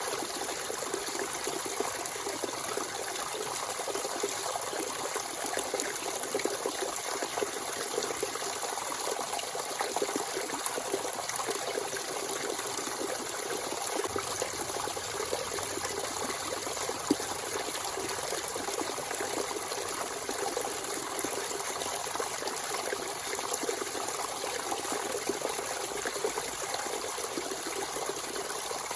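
Natural spring water running and trickling steadily in a small free-flowing stream.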